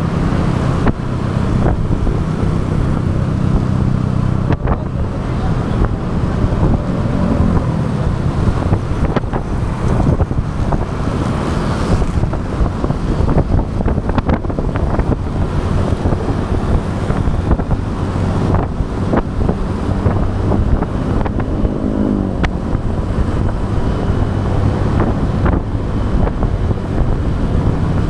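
Motorbike engine running under way, with steady wind buffeting on the microphone and road traffic around it. The engine pitch rises briefly twice.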